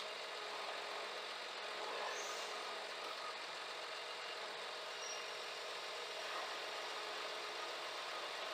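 Scania G410 truck's engine running steadily: an even mechanical noise with a steady hum.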